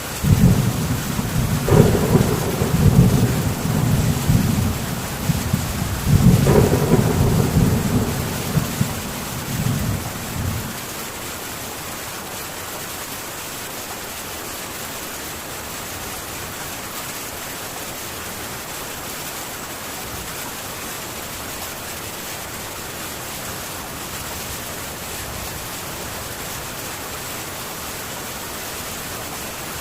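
Heavy rain on a metal tin roof, an even steady hiss, with a long deep rumble of thunder that begins at once, swells twice and dies away after about ten seconds.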